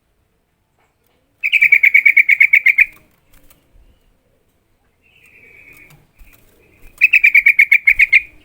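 Yellow-vented bulbul (trucukan) calling: two loud bursts of quick repeated chattering notes, each about a second and a half long, with a softer call between them.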